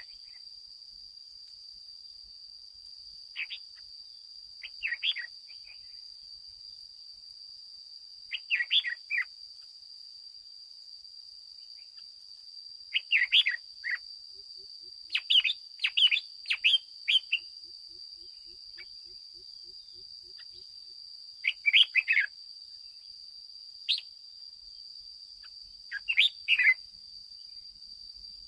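Red-whiskered bulbul singing: short phrases of bright chirping notes come every few seconds, about eight in all. A steady faint high-pitched tone runs underneath.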